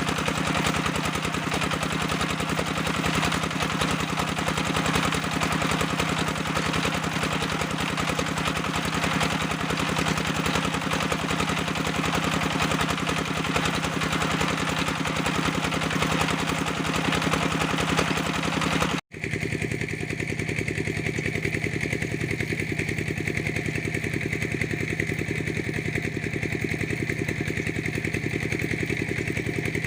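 Engine of a clay-brick press machine running steadily with a fast, even beat. It cuts out for an instant about two-thirds of the way through, then carries on with a slightly different tone.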